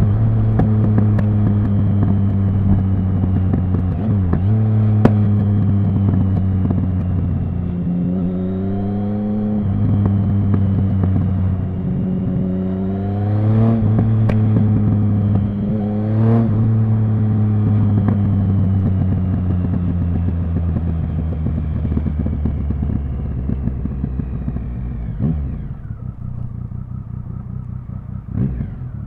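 Triumph Speed Triple 1050's inline three-cylinder engine running at low, fairly steady revs, with several short rises and dips in revs and a couple of sharp pops. Near the end the throttle closes and the revs fall toward idle, with one brief blip just before the end.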